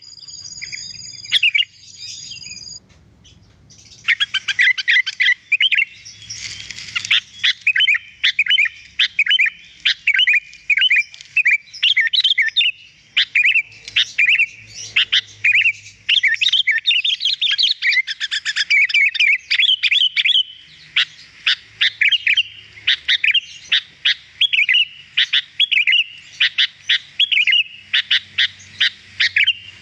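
Sooty-headed bulbul (kutilang) singing in fast, chattering runs of short, bright notes, with a brief pause about three seconds in.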